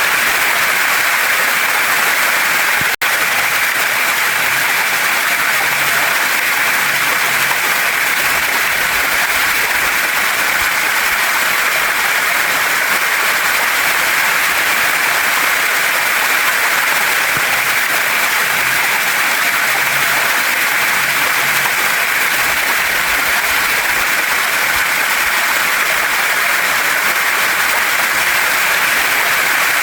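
Waterfall and stream water rushing steadily, a dense even hiss with most of its energy in the upper-middle range. It dips out for an instant about three seconds in.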